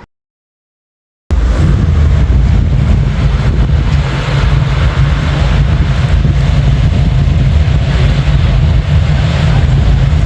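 Dead silence for about a second, then a vehicle engine cuts in loud and steady, with a heavy low rumble.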